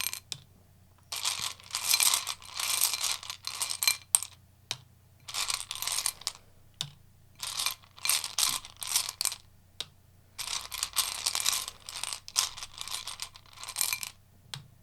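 A deck of tarot cards being shuffled by hand: repeated bursts of rapid card clicking and sliding, about ten in all, with short pauses between.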